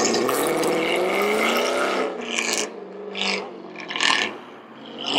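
A car engine accelerating hard with a raspy exhaust, its pitch rising for about two seconds. It then drops to a lower, steadier drone broken by three short bursts of hiss.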